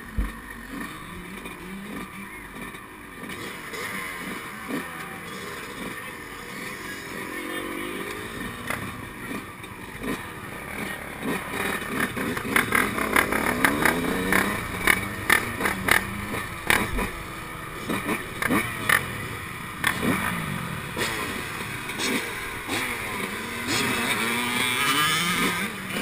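Yamaha YZ125's 125 cc two-stroke single-cylinder engine being raced, revving up and dropping off again and again as it runs through the gears. A run of sharp knocks and clatters comes through in the middle stretch.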